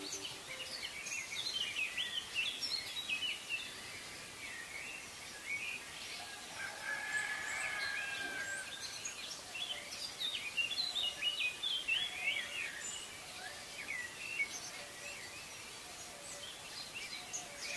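Birds chirping and calling: a dense, continuous run of short high chirps, with one longer held call a third of the way through.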